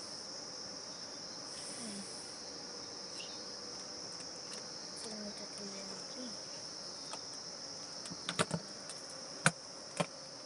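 Steady high-pitched chirring of crickets, with honeybees buzzing around a wall-cavity hive that has been opened without smoke. A few sharp knocks come about eight to ten seconds in.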